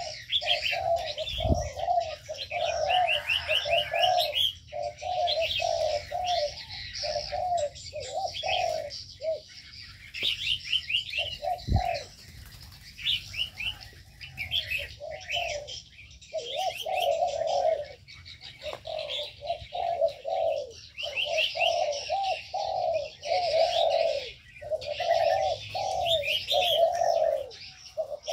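Aviary birds calling together: doves coo again and again in short low phrases, while smaller birds chirp and trill over them in quick high notes. A soft low bump comes twice.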